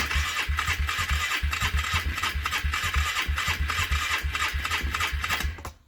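Small petrol engine on a cold start catching suddenly and running with a steady pulsing beat for about five seconds, then dying away near the end.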